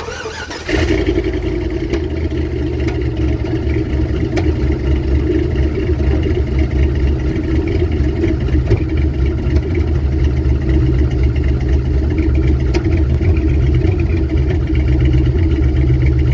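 Honda car engine, sitting all winter, starting cold: it catches within the first second and settles into a steady idle that grows slightly louder.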